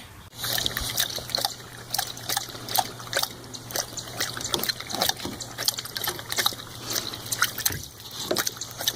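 Water splashing and trickling in quick, irregular small splashes, over a steady low hum.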